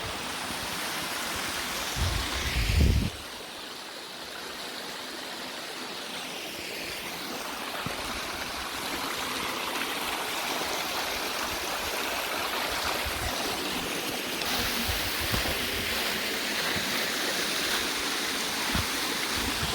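Creek water rushing over rocks at a waterfall: a steady hiss that grows a little louder and brighter over the second half. About two seconds in there is a brief low rumble on the microphone.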